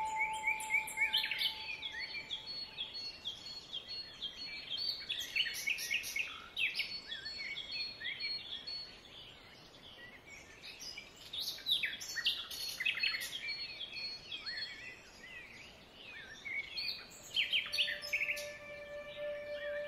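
Songbirds singing: many short chirps and twittering calls overlapping throughout. A lingering bell-like ringing tone fades out over the first few seconds, and new steady ringing tones come in near the end.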